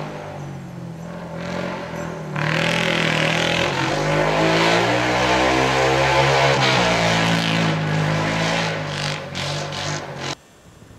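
A car engine revving hard with its tires spinning, as a car stuck in snow tries to get free. It grows louder about two seconds in, its pitch swaying up and down, and cuts off suddenly near the end.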